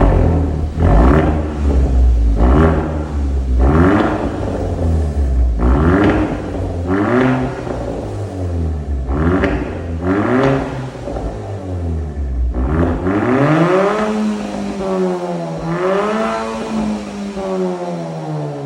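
Kia K3 GT's 1.6-litre turbo four-cylinder running through an aftermarket variable exhaust with the middle muffler replaced by a straight pipe. It is revved in a string of about nine quick blips, then run up twice in longer, slower revs near the end.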